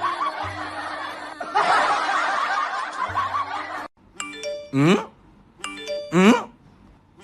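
Canned laughter, as of a crowd snickering and chuckling, runs for about four seconds and then cuts off. It is followed twice by a comedy sound effect: a bell-like ding, then a pitch sliding steeply downward.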